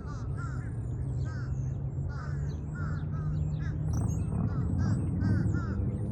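Birds calling: a short arching call repeated about twice a second, with fainter high chirps above, over a low steady rumble that grows a little louder about four seconds in.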